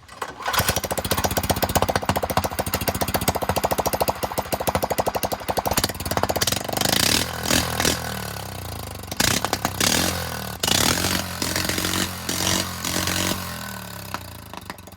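Small garden-tractor engine catching about half a second in and running hard with a fast, even firing beat, revved up and down several times, then dropping back toward idle near the end.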